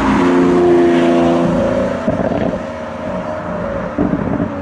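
Lamborghini Aventador's V12 engine running as the car drives along the road, holding a steady note for the first second and a half before the sound turns rougher and changes.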